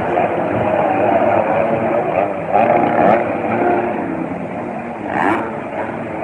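Engines of several 250-class motocross bikes out on the track in practice, revving up and down as they ride, with a short burst of noise about five seconds in.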